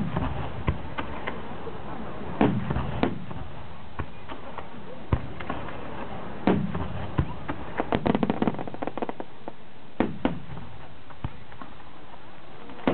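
Aerial firework shells of a starmine, a rapid-fire fireworks sequence, bursting: a series of sharp bangs irregularly a second or so apart, some rolling on briefly after the hit. About eight seconds in comes a quick run of pops close together.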